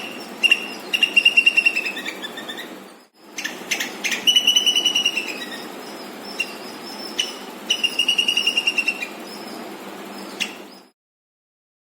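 Squirrel chirping: rapid runs of short, high chirps that trail off at the end of each run, with single sharp chirps in between. The sound cuts off abruptly near the end.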